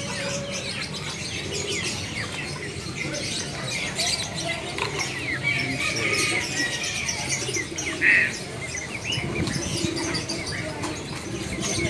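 Many caged birds chirping and calling at once, a dense chorus of short chirps, with one louder call about eight seconds in.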